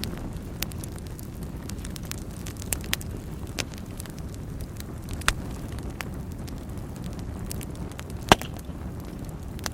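Wood fire burning in a fireplace: a steady low rumble of flames with scattered sharp crackles and pops, the loudest pop about eight seconds in.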